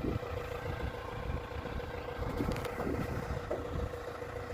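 Tractor engine running steadily, a low rumble with a constant whine over it.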